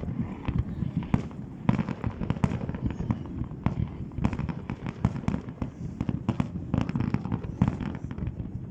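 Fireworks going off: a rapid, irregular run of bangs and crackling pops, many close together, with no pause.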